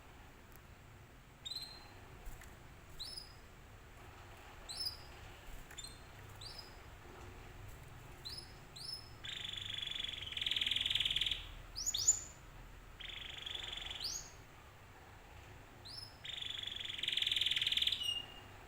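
Domestic canary singing, used as a lure song to get other canaries to answer: a string of short rising chirps, broken three times by loud buzzy trills lasting one to two seconds each.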